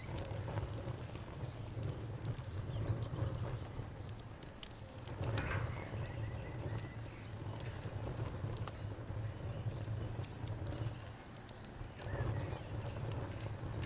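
Campfire crackling, with frequent sharp pops and snaps over a low, steady rumble of burning wood that swells twice. Crickets chirp steadily in the background.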